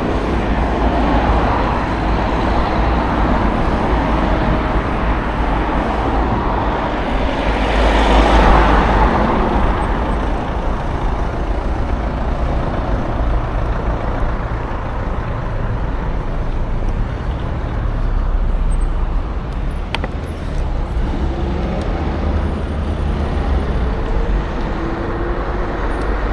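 Wind rushing over the microphone and tyre and road noise from a moving electric scooter, with a louder swell about eight seconds in.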